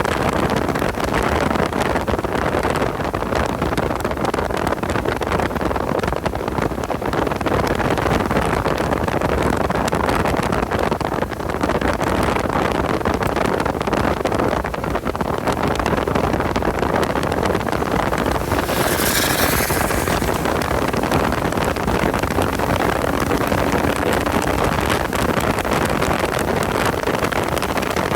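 A car engine running hard, with heavy wind and road noise on the microphone, steady throughout. A brief hiss comes about two-thirds of the way through.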